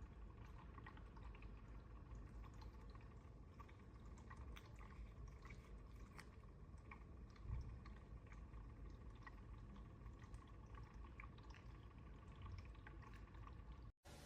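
Cheerble Elfin E1 Lite pumpless cat water fountain running, faint water trickling and dripping with many small irregular drip ticks over a faint steady hum. One slightly louder low thump about halfway through.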